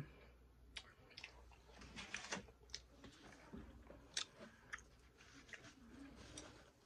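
Faint chewing of a bite of chicken: scattered soft mouth clicks and wet smacks.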